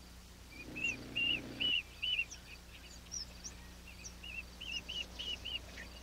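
A small bird chirping: quick runs of short, arched chip notes, two or three at a time, repeated.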